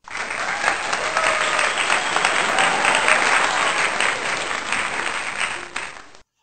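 Applause: a crowd clapping, steady and then fading out near the end.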